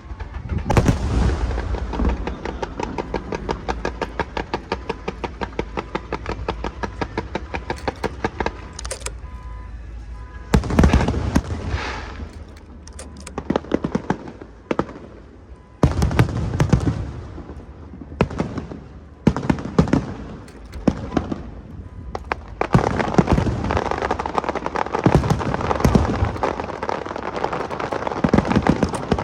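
Aerial fireworks going off: a long rapid string of sharp pops several times a second, then clusters of heavier booming bursts with crackle between them.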